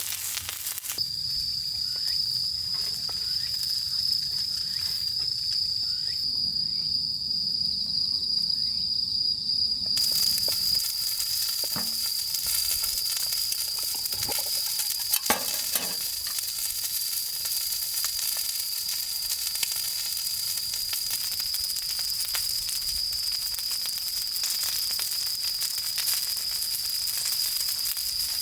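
A continuous high insect trill, typical of crickets, starting about a second in, over a steady sizzling hiss, with a few faint knocks around the middle.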